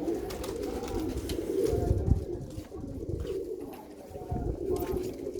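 Domestic pigeons cooing together in a loft, a steady overlapping murmur, with a few low thumps about two seconds in and again near the end.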